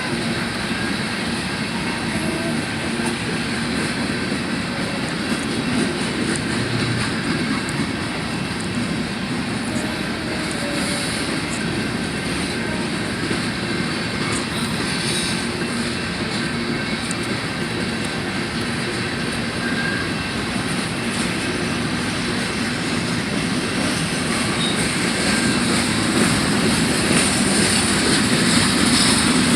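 A train rolling past, with the steady rumble and rattle of its wheels and cars on the rails, growing a little louder near the end.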